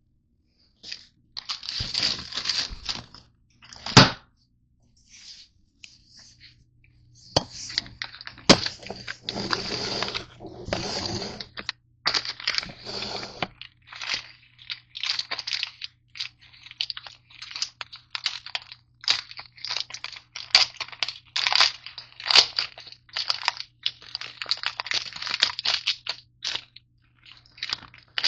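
Crunchy granola bars being crushed and broken up in a bowl: irregular crunching and crackling strokes with a couple of sharp knocks, the strokes coming thicker in the second half.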